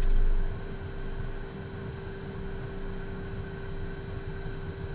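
Cockpit noise of a Beechcraft Premier jet rolling on the ground after landing: a steady whine from the idling turbofan engines over an uneven low rumble from the wheels, with a low thump right at the start.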